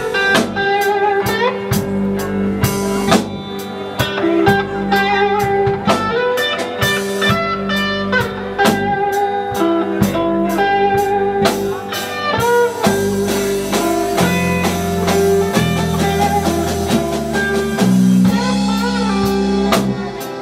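Live blues band playing an instrumental break: electric guitar lead lines over bass and a drum kit keeping a steady beat.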